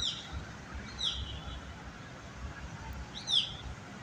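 A bird calling: three short, high chirps, each sweeping down in pitch. They come at the start, about a second in, and again near the end, over a low background rumble.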